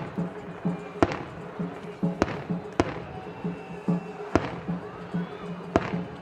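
Fireworks shells bursting in the sky: five sharp bangs at uneven intervals. Under them, festival drums keep up a steady beat of about two low thumps a second.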